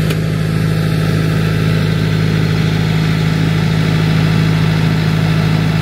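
Cummins X15 diesel engine of a triaxle dump truck running at a steady idle, a constant low drone.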